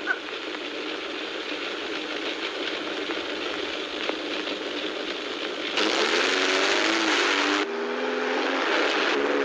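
Car engine running on an old film soundtrack under a steady hiss, getting louder about six seconds in, with a wavering pitch.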